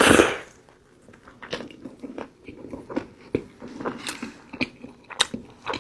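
A close-miked bite into In-N-Out fast food, loudest in the first half second, followed by chewing with scattered short wet mouth clicks and small crunches.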